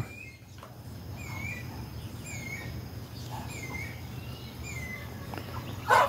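A bird calling with a short clear note repeated about once a second, each note dipping and rising slightly in pitch, over a faint steady low hum.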